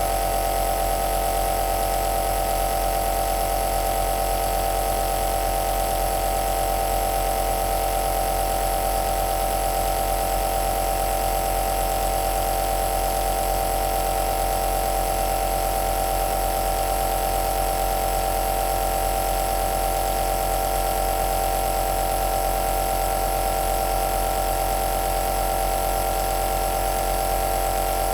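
Home compressor nebulizer running: a steady mechanical hum with one strong, even mid-pitched tone over a hiss.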